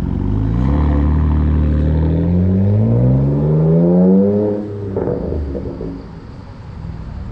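Non-turbo BMW F10 through an aftermarket stainless full exhaust system, accelerating hard with the engine note rising steadily for about four seconds, then backing off to a lower, rougher burble.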